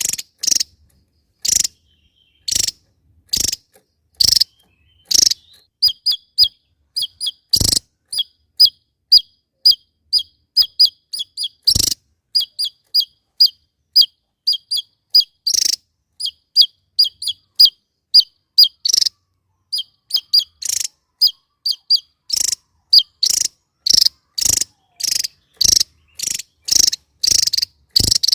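Javan tesia calling: sharp, short chirps about once a second, then a quicker run of short notes that drop in pitch, several a second, before the spaced loud chirps resume.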